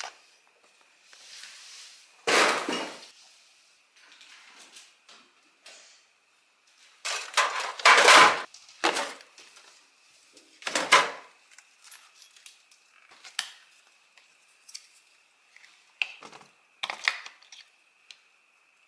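Irregular knocks and clinks of hard household objects being handled and set down, like dishes or utensils, with a faint steady high whine underneath.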